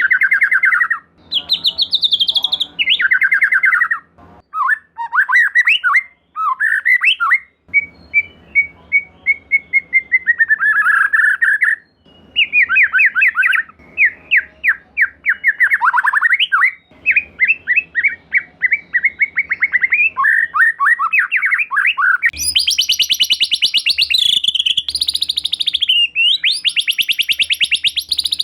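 White-rumped shama (murai batu) singing: loud, varied phrases of whistles and chattering, many built from fast repeated notes and pitch glides. Near the end it switches to a harsh, buzzy rattle in long bouts.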